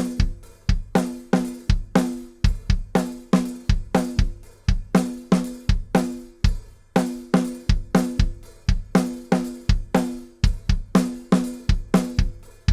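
Acoustic drum kit playing a steady groove of kick and snare hits, the snare ringing with a pitched tone. It is recorded through a Quagliardi 501+ 500-series mic preamp with its input and output knobs at 12 o'clock, a setting meant to add slight distortion to the transients.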